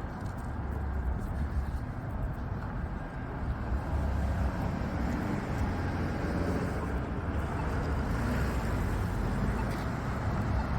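City street traffic: cars passing in a steady rumbling wash, growing a little louder about four seconds in.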